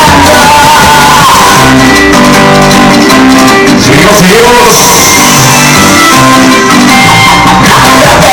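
Loud music with singing played through a DJ sound system.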